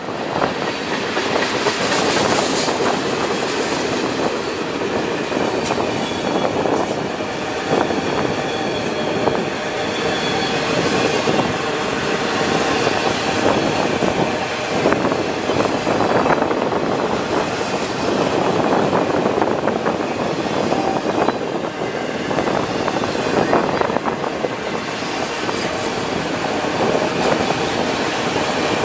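Freight cars of a long train rolling steadily past, wheels clicking over the rail joints, with faint wheel squeal running through the rumble.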